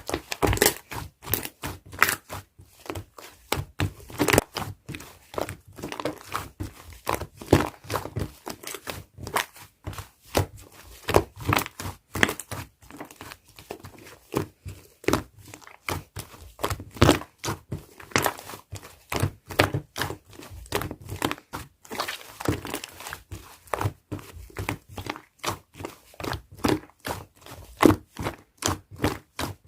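Clay slime being mixed and kneaded by hand, giving an irregular run of sticky pops and crackly clicks, several a second.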